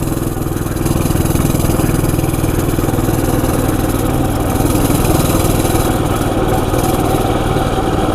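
Coleman CT200U EX mini bike's 196cc single-cylinder four-stroke engine running at a steady speed under way.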